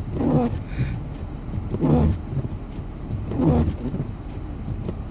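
Vehicle cabin noise while driving through snow: a steady low engine and road rumble, with a short sweep repeating about every second and a half from the windshield wipers.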